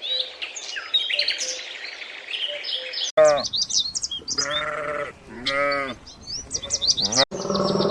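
Small birds chirping rapidly, then, after a sudden cut, a farm animal gives three long bleating calls while birds keep chirping above it.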